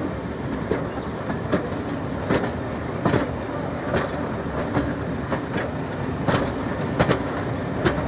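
Train wheels clicking over rail joints, about once every three-quarters of a second, over a steady running rumble.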